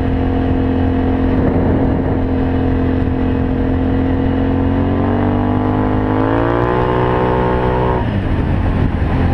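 Can-Am Outlander 500 ATV's V-twin engine through an aftermarket Yoshimura exhaust, running steadily. About five seconds in the revs climb, hold high, then drop off sharply near the end as the throttle is released.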